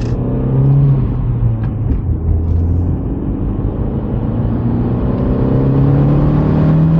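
Big-turbo B5 Audi's engine pulling under way, heard with road noise; its note holds steady for a few seconds, then climbs gradually and grows louder as the car accelerates.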